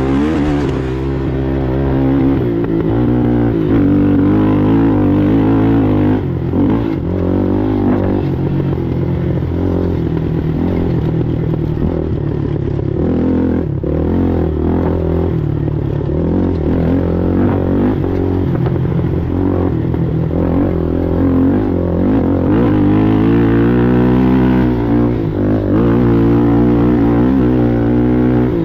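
Sportsman racing ATV engine running hard, its pitch rising and falling again and again as the throttle opens and closes.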